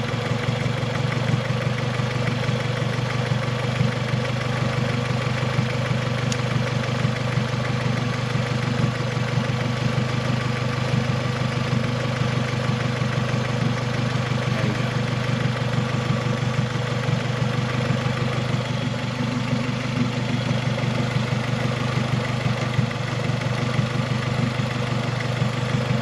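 Turbocharged Honda H22 four-cylinder engine in a Civic idling steadily.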